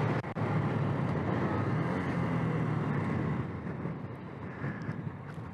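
Motorcycle engine running under way, with wind and road noise over the microphone. It gets quieter about three and a half seconds in, as if the rider eases off the throttle.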